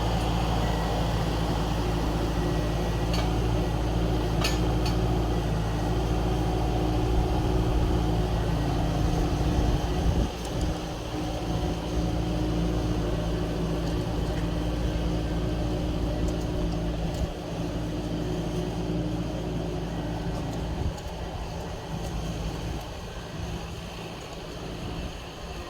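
Tractor diesel engine running steadily, with a couple of faint knocks in the first few seconds. It grows gradually quieter over the second half.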